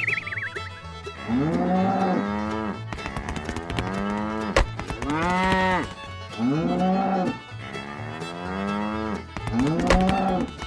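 Cattle mooing, a string of long calls one after another, each rising and then falling in pitch, over background music with a steady beat.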